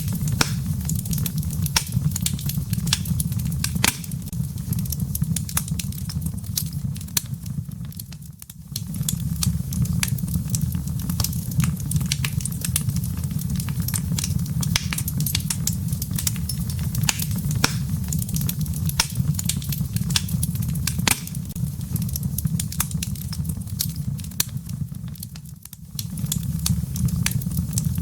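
Wood fire in a fireplace crackling and popping with dense, irregular sharp snaps over a steady low rumble of the burning logs. The whole sound fades briefly and comes back twice, about eight seconds in and near the end.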